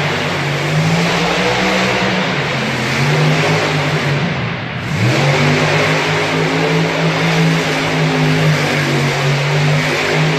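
Large motor-vehicle engine running hard at high revs. The revs drop about four and a half seconds in, then rise sharply again and hold.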